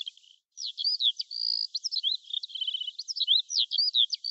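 Birdsong: many quick rising and falling chirps with a few short rapid trills.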